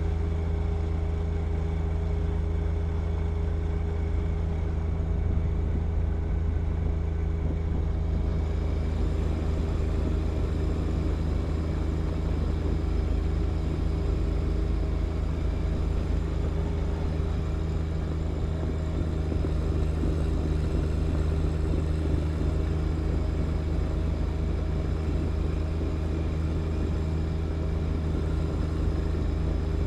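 John Deere 1025R compact tractor's three-cylinder diesel engine running steadily at a constant speed while clearing snow. About eight seconds in, a higher hiss joins the engine sound.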